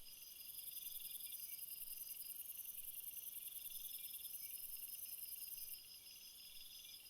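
Jungle chorus of crickets and other insects. A high, steady trill runs until about six seconds in and then cuts off, over short chirps repeating about twice a second and a lower trill that comes in spells of about a second.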